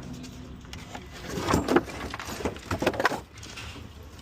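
Scattered clattering knocks and rattles of junk being handled, with a cluster of hits about a second and a half in and another near three seconds.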